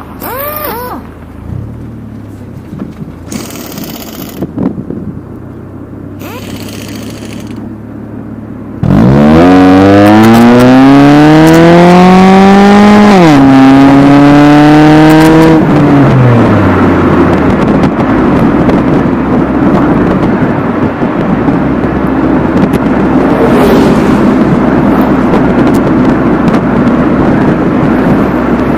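Honda Avancier engine through a custom straight-through exhaust with two resonators and two hand-built straight-through mufflers. It idles quietly for about nine seconds, then is revved suddenly and loudly, the pitch climbing for about four seconds before dropping back. It then runs loud and steady for the rest.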